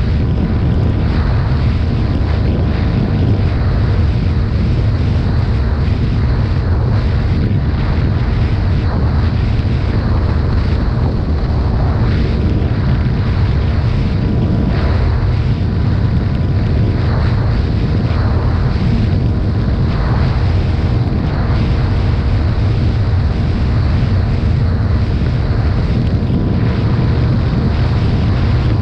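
Heavy wind buffeting on the microphone of a CFMoto 250 CL-X motorcycle at riding speed. The bike's single-cylinder engine runs steadily underneath.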